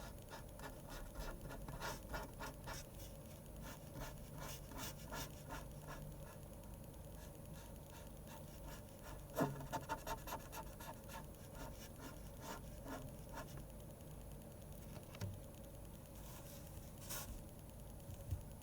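Pen scratching on paper while drawing manga: quick runs of short strokes with pauses between them. A light knock sounds about halfway through.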